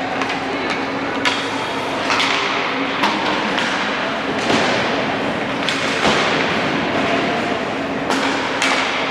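A basketball bouncing and thudding on a hardwood gym floor, irregular impacts about once a second, over a steady background din in the gym.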